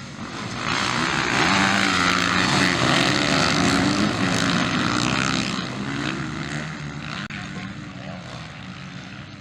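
A pack of motocross dirt bikes racing at full throttle, many engines together. It swells to a loud peak about a second in, then fades away over the last few seconds as the bikes move off.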